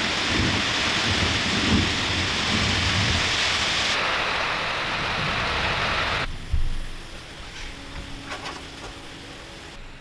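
A steady, loud hiss of water spraying, with low thumps under it. It cuts off suddenly about six seconds in, leaving faint clicks and a low hum.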